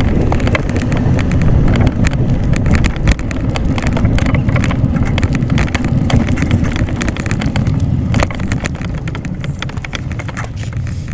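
Wind rumbling on the microphone of a bike in motion, with frequent small rattles and knocks throughout.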